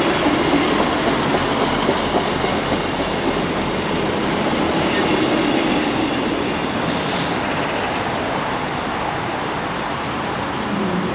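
Train running on the rails: a steady rumble of wheels and carriages that eases slightly toward the end.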